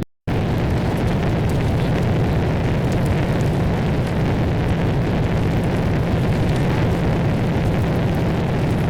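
Designed sound effect of steady, dense rumbling noise with a low hum underneath, starting abruptly a moment in and holding even throughout.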